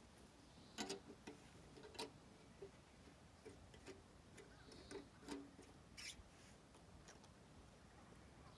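Near silence broken by scattered faint clicks and knocks at uneven intervals, a little over a dozen of them, the sharpest about a second in, at two seconds, around five seconds and at six seconds. There is no chainsaw running.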